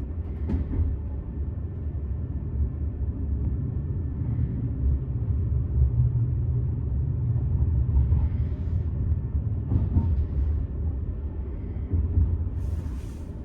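VR Intercity train running on the rails, heard as a steady low rumble with a few sharp clicks from the wheels and track. A short hiss comes near the end.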